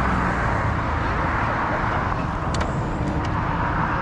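Steady rumble and hiss of a moving vehicle, road and wind noise without a clear engine note, with a few faint clicks about two and a half to three seconds in.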